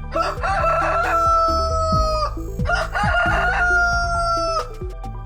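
Rooster crowing twice, each crow about two seconds long and ending in a long held note that sags slightly in pitch before breaking off.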